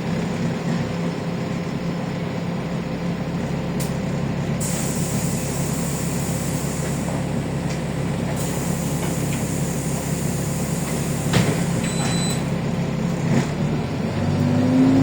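Cabin noise inside a LiAZ-6213.65 articulated city bus on the move: a steady engine hum with road noise. A few seconds in, a hiss of air runs for about four seconds. Near the end come a short high beep and a couple of sharp clicks.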